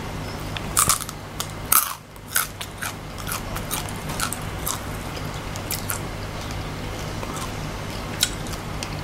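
Crunching bites into a fried scorpion's thick shell, then chewing with many smaller crunches; the two loudest crunches come in the first two seconds, lighter chewing crunches after. A steady low hum lies underneath.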